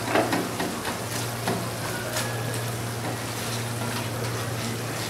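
Thick tomato masala gravy sizzling in a pan while a silicone spatula stirs it and breaks up the softened tomatoes, with a few short scrapes of the spatula against the pan. A steady low hum runs underneath.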